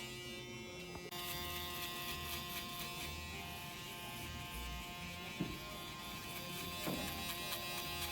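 Electric hair clippers running with a steady buzz that gets a little louder about a second in.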